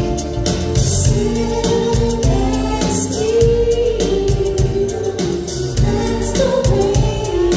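Live pop-soul song with a band: several voices singing held notes in harmony over a steady drum beat.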